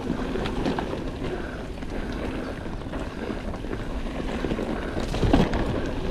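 Rock Machine Blizzard mountain bike ridden down a dirt trail: tyres rolling over the ground, chain and frame rattling with small knocks over roots and rocks, and wind buffeting the microphone. One louder knock a little after five seconds in.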